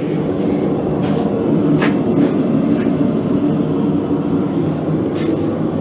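A blacksmith's forge running: a steady rushing noise with a low hum underneath, unbroken throughout.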